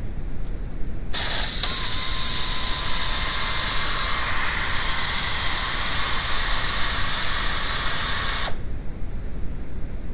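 A loud steady hiss that starts abruptly about a second in and cuts off after about seven seconds, with a faint steady tone inside it, over a constant low rumble.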